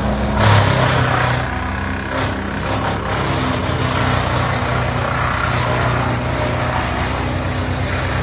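An engine running steadily, with a brief louder swell about half a second in.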